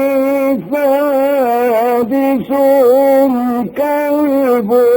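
A man's voice reciting the Quran in melodic tajweed style. He holds long notes and ornaments them with wavering turns, with a few brief breaks between phrases.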